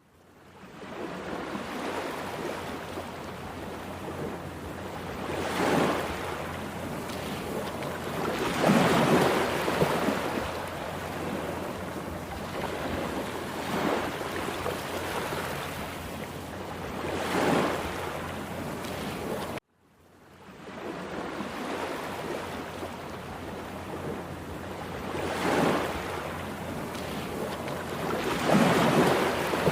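Rough sea: surf breaking in a steady wash, with waves surging louder every few seconds. The sound cuts out briefly about two-thirds of the way through, then fades back in.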